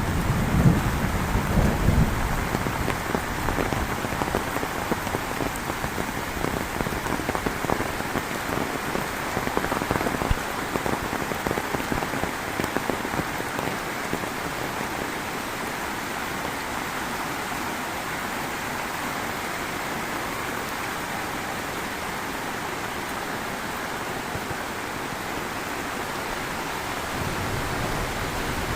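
Heavy rain falling steadily in a thunderstorm, an even hiss and patter throughout. A low rumble of thunder fades out in the first two seconds.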